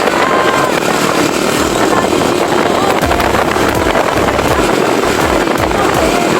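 Motorcycle on the move: steady engine running under a loud rush of noise. Regular low pulses come in about halfway through.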